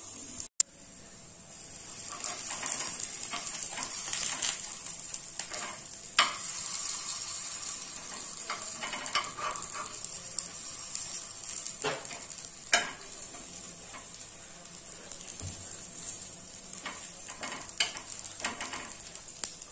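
Batter-coated suzhiyam balls sizzling in a little oil in the cups of a non-stick paniyaram pan, with a metal spoon clicking against the pan now and then as they are turned. A sharp click comes about half a second in.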